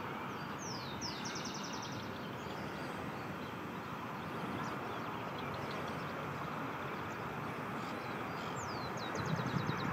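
A bird singing twice, about half a second in and again near the end: a high downward sweep followed by a quick run of about ten short falling notes. A steady background noise runs underneath.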